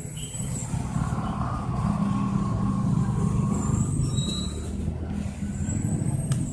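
Heavy vehicle engine running close by, growing louder over the first two seconds and then holding steady, with a few short high-pitched squeals.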